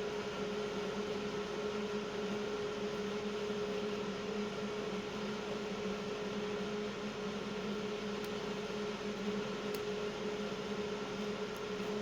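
Steady motor hum with a hiss, unchanged throughout, and a few faint small clicks near the end.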